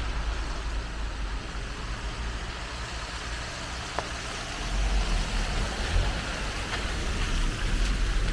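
A motor vehicle's engine running at low speed over a steady rushing haze, with a single sharp click about four seconds in.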